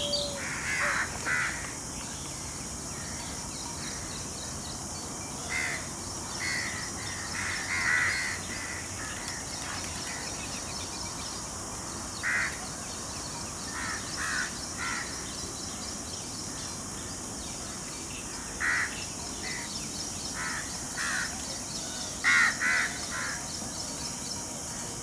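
Short, harsh bird calls, singly and in quick pairs every few seconds, the loudest a pair about three seconds before the end, over a steady high hiss.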